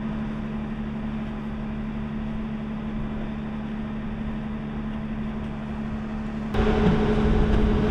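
A steady mechanical hum with a constant low tone over an even rush of noise, stepping up louder about six and a half seconds in, when a second, higher tone joins.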